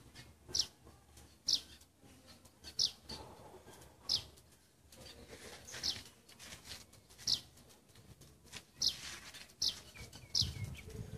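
A bird repeating a short, high, downward-sliding chirp about once a second. A low rumble comes in near the end.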